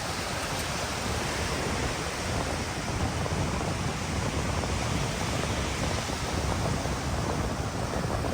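Ocean surf washing onto a sandy beach as a steady rush, with wind rumbling on the microphone.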